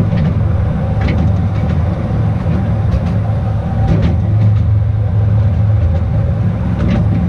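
Small narrow-gauge electric train running on its track, with a steady low hum and a few sharp clicks from the wheels on the rails.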